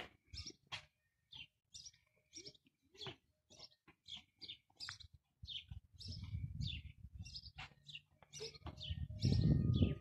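A small bird chirping over and over, short high chirps at about two to three a second. A low rumbling noise comes in about six seconds in and grows loudest near the end.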